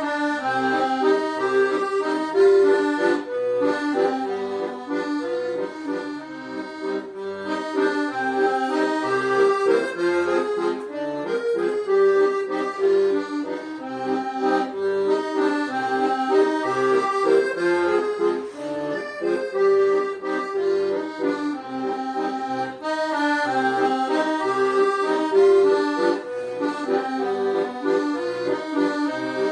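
Solo accordion playing a slow melody over a regularly pulsing bass and chord accompaniment.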